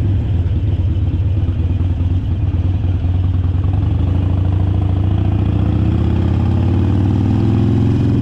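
Harley-Davidson Sportster Forty-Eight's air-cooled 1200 cc V-twin running loud and steady, its note settling into a cleaner, even rhythm from about halfway through.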